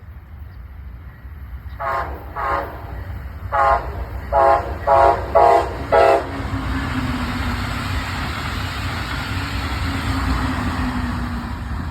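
Train horn sounding a run of about seven short blasts, then the train rumbling past with a low tone that slides slightly down.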